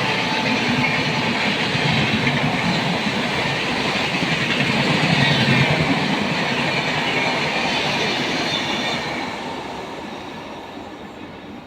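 Passenger train running through a station at high speed, its coaches and wheels rushing past on the track, then fading away from about nine seconds in as the train recedes.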